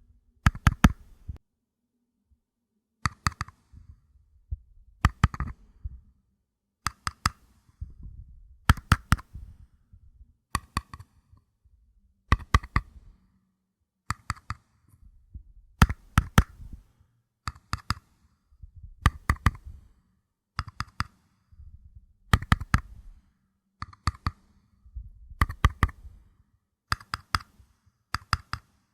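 Paper cups being tapped: quick clusters of several light taps, a new cluster every second or two, each tap with a short papery ring.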